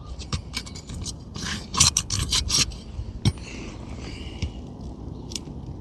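Pry tool scraping under an asphalt shingle and prying out a roofing nail: a quick run of scrapes and sharp clicks in the first three seconds, then a few single clicks.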